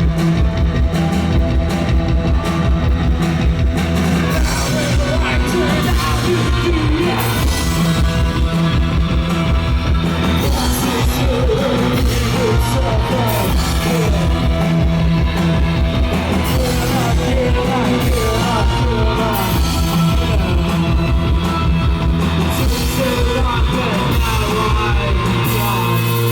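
Post-punk band playing live at concert volume: electric guitar, bass and drums, with a voice singing over them from a few seconds in.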